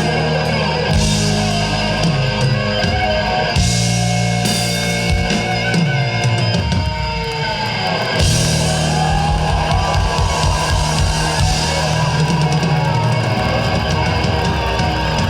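Live rock band playing an instrumental passage: electric guitar over bass and a drum kit, with bending guitar lines in the second half.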